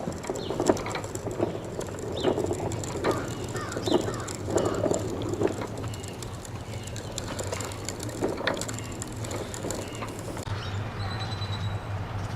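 Child's bicycle rolling along a path, with scattered clicks and rattles over a steady low hum.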